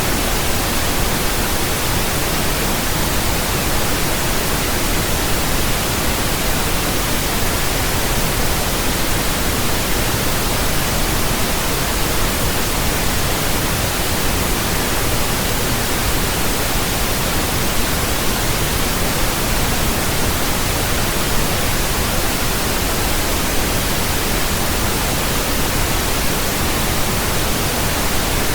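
Steady pink noise: an even, constant hiss with a deeper rumble beneath, unchanging throughout.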